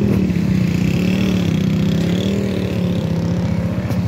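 A motor vehicle engine running close by, a steady low hum with a fast even throb.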